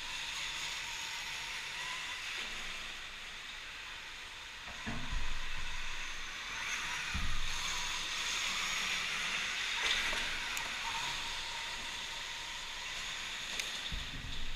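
Electric dirt bikes riding an indoor track: a steady hiss with a faint thin high whine, broken by dull low thumps about five, seven and fourteen seconds in.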